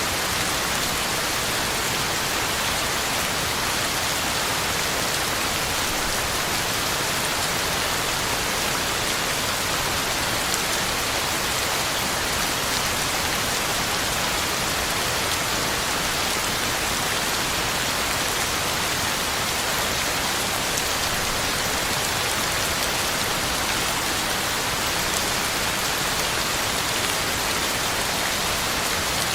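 Heavy rain falling steadily, a dense even hiss of drops hitting the ground and leaves, with faint individual drop ticks.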